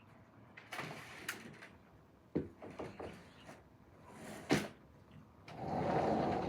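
Handling of MRE packets and items on a table: brief rustles and sharp knocks, then a longer rasping rustle near the end.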